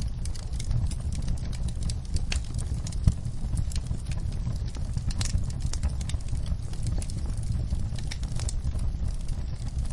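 Wood fire crackling: irregular sharp pops and snaps over a steady low rumble, with one louder pop about three seconds in.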